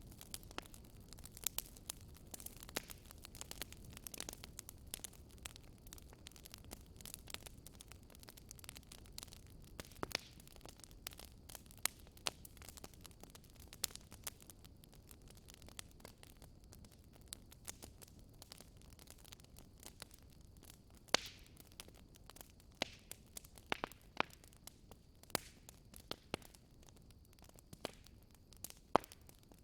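Wood fire in a fireplace crackling, with irregular snaps and a few louder pops over a faint low rumble of the flames.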